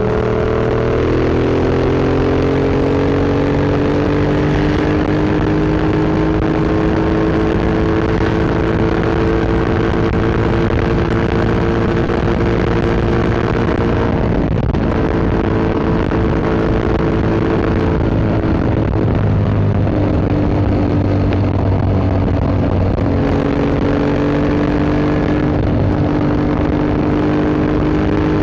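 Yamaha MT-07 parallel-twin running through an Akrapovic Racing Line exhaust while riding, revs climbing slowly and then held steady. The note breaks briefly for gear changes about halfway through and twice more later.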